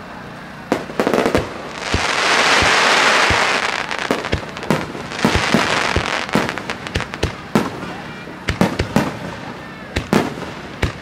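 Fireworks finale: many sharp bangs of shells bursting one after another, with two long, loud hissing swells about two and five seconds in.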